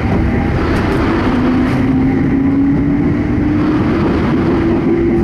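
Commuter train running noise heard from inside an E231-series car: a steady rumble of wheels on rail, with another train passing close alongside. A motor whine rises slowly in pitch from about a second in.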